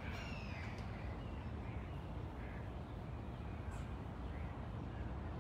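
Faint bird calls, a few short ones near the start and about halfway through, over a steady low background rumble.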